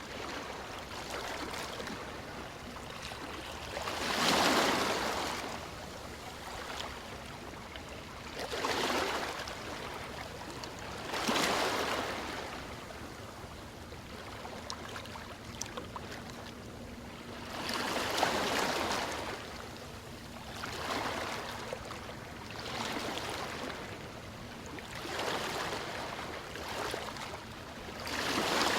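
Ocean waves breaking and washing ashore, a surge of hiss rising and falling every few seconds over a steady background wash.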